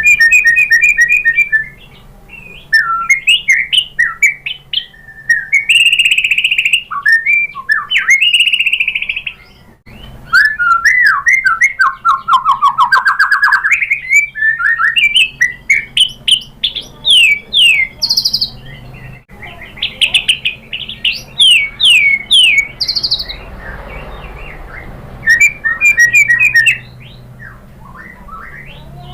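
White-rumped shama (murai batu) singing: a loud, varied song of fast trilled phrases, rising and falling whistles and quick repeated notes, broken by a few short pauses.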